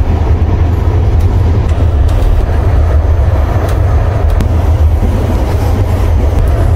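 A moving passenger train heard from inside the carriage: a steady, loud, low rumble of the car running on the rails, with a few faint, irregular clicks.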